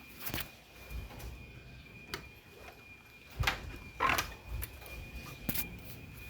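A few scattered knocks and clicks, the loudest two about halfway through, over a faint steady high-pitched tone.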